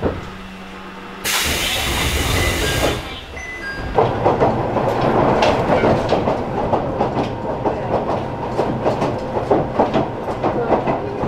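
Alpico Kotsu 20100-series electric train heard from inside the car: a low hum, then a loud hiss of air for about a second and a half. Then the train running, its wheels clattering over rail joints in quick irregular clicks over a steady rumble.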